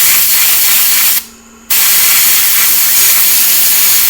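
Compressed air blowing hard from a nozzle onto a circuit board in loud hissing blasts. The first blast cuts off about a second in, and the next starts half a second later and keeps going.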